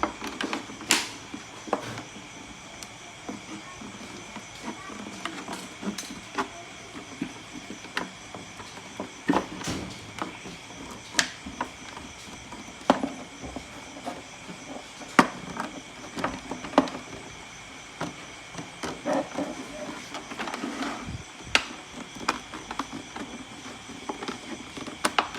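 Irregular clicks, taps and knocks of hands handling empty plastic bottles and tools while building a bottle feeder, with faint steady high tones in the background.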